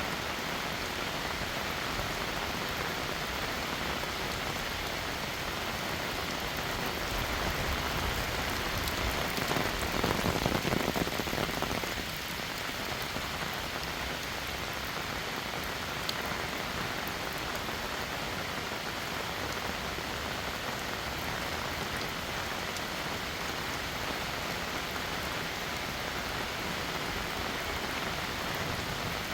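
Heavy rain falling steadily in a dense hiss. For a few seconds near the middle it swells louder and deeper, then drops back abruptly.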